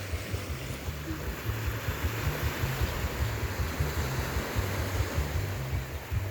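Ocean surf washing steadily onto the beach, with wind rumbling against the microphone in uneven gusts.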